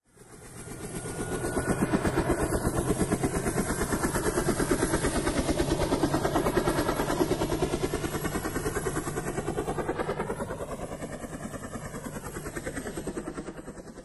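A vehicle sound effect: a rapid, regular pulsing that fades in from silence over about two seconds, holds steady, and eases off toward the end, with a slow sweeping change in tone near the end.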